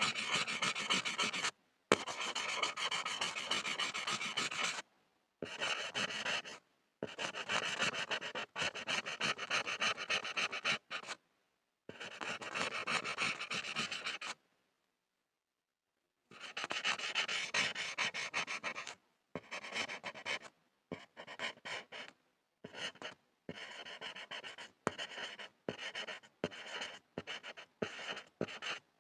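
Pencil scribbling on a board, scratchy and rasping. Long strokes lasting a few seconds each come first, then a pause of about two seconds midway, then shorter, quicker bursts of scribbling.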